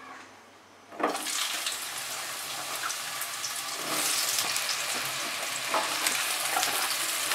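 Hot oil bursts into a sizzle about a second in as ridge gourd pieces are dropped into the kadai. The steady frying hiss grows a little about four seconds in as more pieces go in.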